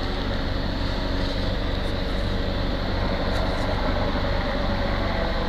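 Helicopter circling overhead, a steady engine and rotor drone with a low hum that holds even throughout.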